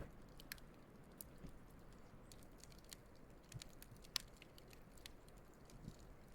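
Wood campfire burning faintly, with scattered small crackles and pops, one sharper pop about four seconds in, over a low steady hiss.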